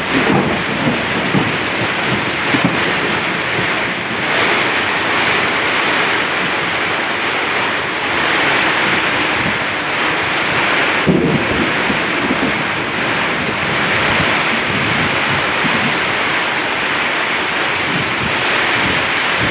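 Heavy rain pouring in a steady loud hiss, with strong wind gusting across the microphone in low rumbles near the start and again about eleven seconds in.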